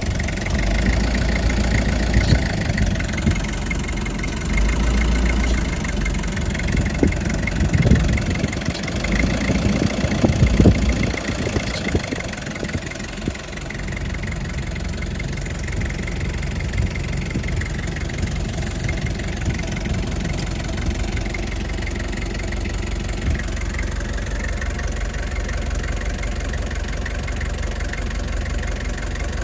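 Toyota HiAce LY151 diesel engine running at idle, uneven with a few brief louder bumps in the first half, then settling to a steady idle.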